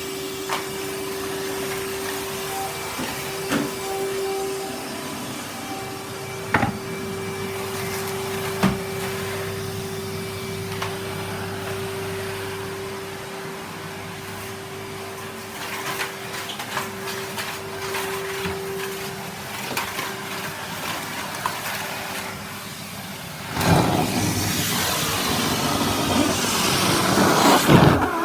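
Henry canister vacuum cleaner running, its motor giving a steady hum, with occasional knocks and clicks. About 23 seconds in, the sound turns louder and rougher with a rushing noise.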